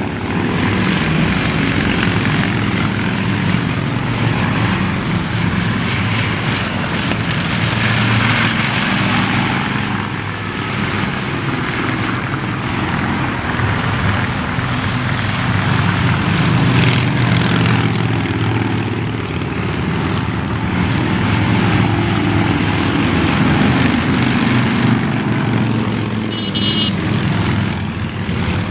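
A long procession of motorcycles streaming past on a highway, their many engines blending into a loud, steady drone with road noise.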